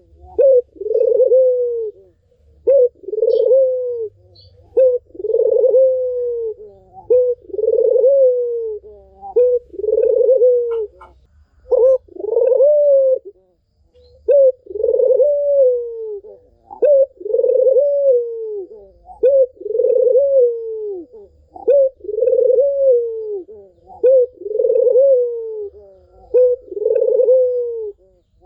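A puter (Barbary dove) cooing over and over, about one coo every two seconds. Each coo is a short note followed by a longer one that falls in pitch.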